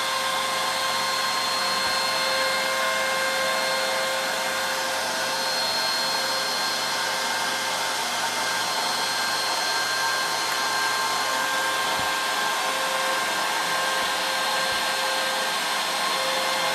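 CNC router spindle running with a steady whine as a small ball-nose router bit carves a 3D relief into wood.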